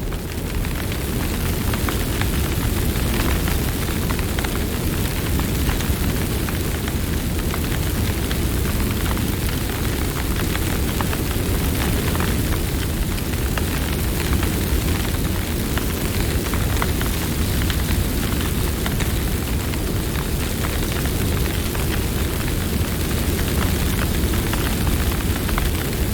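Campfire burning: a steady low rumble of flames with frequent small crackles and pops of burning wood.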